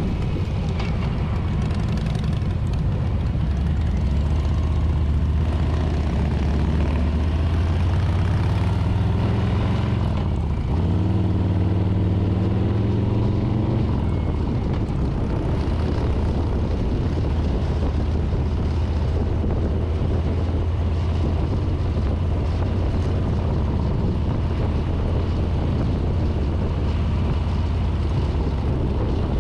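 Harley-Davidson Street Bob's V-twin engine under way: its note climbs, breaks about ten seconds in and climbs again as it shifts up, then settles to a steady cruise about fourteen seconds in. Wind rush on the handlebar-mounted microphone.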